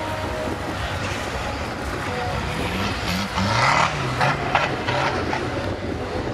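Off-road Suzuki Samurai engine revving up and down as it drives down a steep dirt slope, with wind buffeting the microphone. A louder rush of noise comes near the middle.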